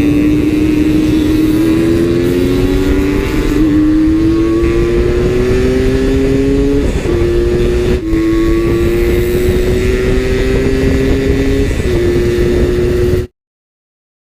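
Two-stroke Suzuki Satria motorcycle engine running under way, its pitch creeping slowly up and dropping back several times. It cuts off abruptly near the end.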